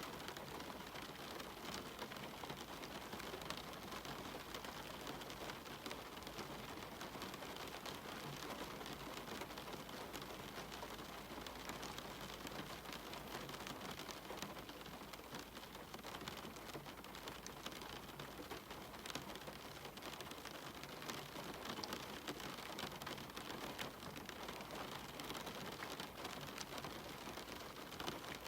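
Steady rain with many close drops pattering on a surface, a constant even hiss without thunder.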